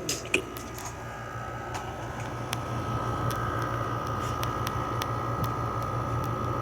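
LG 6000 BTU window air conditioner running with its GMCC rotary compressor on: a steady low hum under the rush of the fan's air, with a steady whine that grows stronger about a second and a half in. A few light clicks right at the start.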